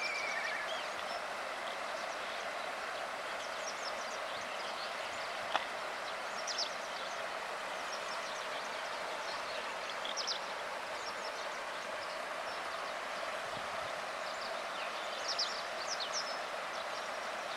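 Steady rush of flowing stream water, with a bird's short high calls heard now and then over it. A single sharp click sounds about five and a half seconds in.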